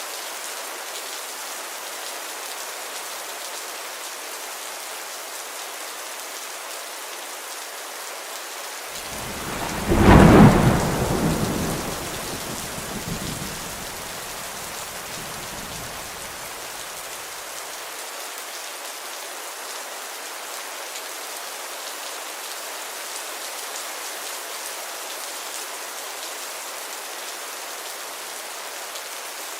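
Steady rain hiss, with a sudden thunderclap about ten seconds in whose deep rumble fades away over the next seven seconds or so.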